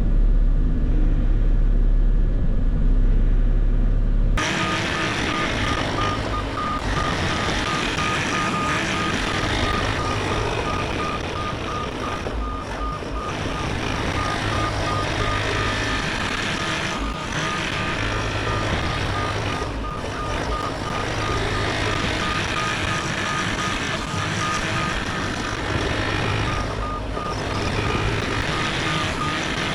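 Heavy equipment's diesel engine running under load. About four seconds in the sound changes abruptly, and from then on a travel/back-up alarm beeps steadily over the engine, with a few scraping noises.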